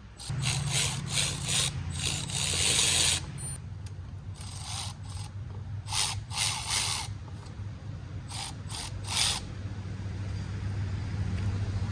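Hand tools working on a car, in several bursts of ratcheting and metal scraping, over a steady low hum.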